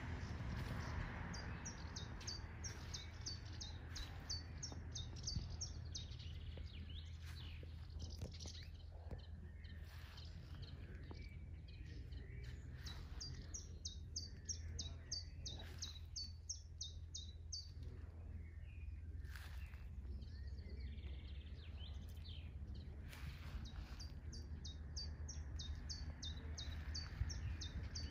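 A songbird singing in three bouts of quick, high, downward-sliding notes, a few a second. The bouts come near the start, in the middle and near the end, over a faint steady low rumble.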